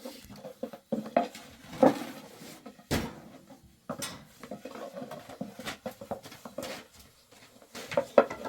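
Pots and metal utensils clattering as they are handled, in irregular knocks and clinks, the loudest about three seconds in and another cluster near the end.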